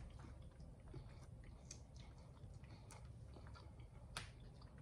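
Faint close-up chewing of a sandwich, with small wet mouth clicks scattered through and one sharper click near the end.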